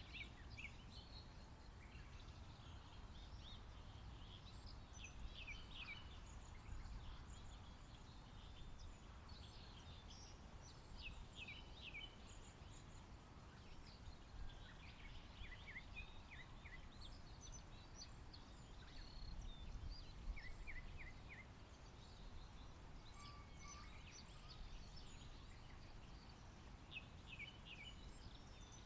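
Several wild birds singing and calling at a waterside, with short, quick runs of high notes scattered throughout, over a faint, steady low rumble of background noise.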